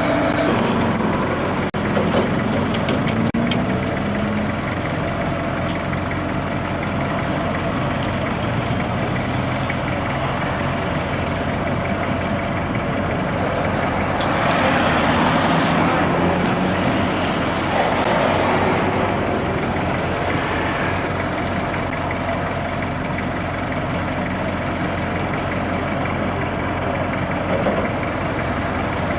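Heavy vehicle engine idling steadily, with a swell of louder rushing noise around the middle.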